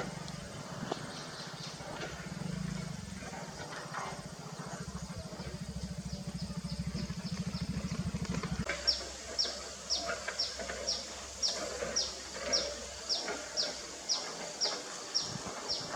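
A low, evenly pulsing engine hum under faint high chirps for the first half, cutting off suddenly about nine seconds in. From then on, a loud, regular series of short high chirps, each sweeping downward, about two a second.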